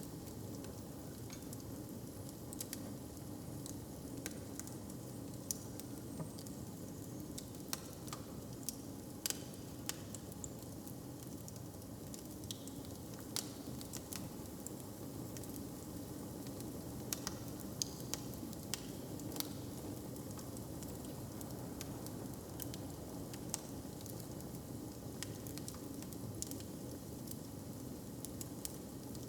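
Wood fire crackling with irregular sharp snaps over a steady low rumble.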